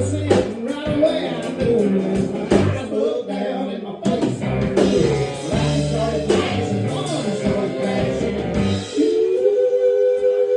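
Live country band with electric guitar and bass playing an uptempo honky-tonk song, with some singing. About nine seconds in the bass drops out and a guitar holds a sustained two-note bend.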